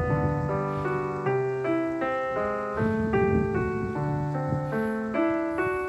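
Background piano music: a slow, gentle melody of single notes over held bass notes.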